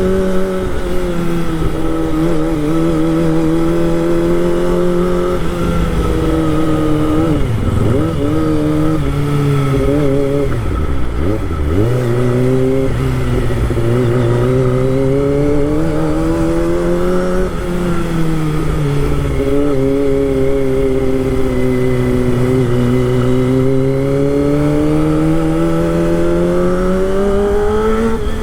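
Kawasaki Ninja ZX-25R's inline-four engine running on the move, its pitch holding fairly steady, dropping sharply twice about a third of the way in as the throttle is eased, then picking back up and rising again near the end.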